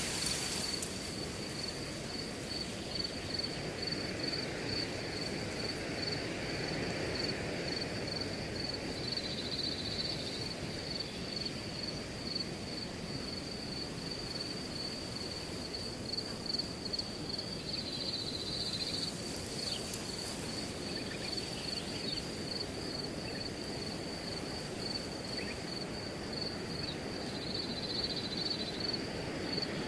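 Wind rustling through a grass field as a steady hiss, with a cricket chirping high and evenly without pause.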